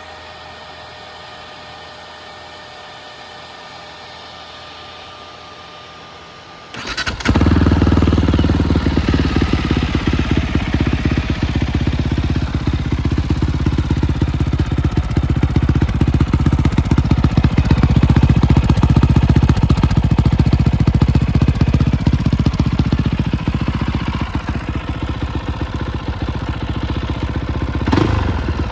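Fantic Caballero 500 single-cylinder engine with an Arrow aftermarket exhaust, started about seven seconds in after a steady hum, then idling with a fast, uneven thumping beat. A short rev near the end rises and falls.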